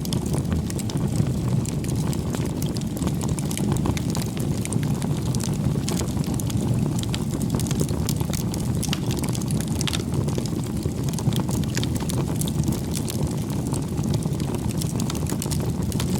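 Bonfire burning: a steady low rumble of flame with frequent small crackles and pops from the burning wood.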